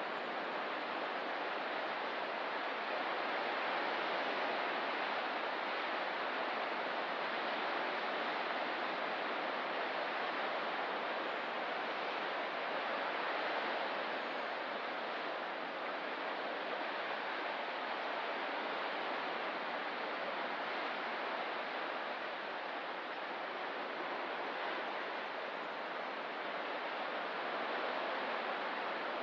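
Ocean surf on a rocky coast: a steady rush of water with slow, gentle swells in level and no separate wave crashes standing out.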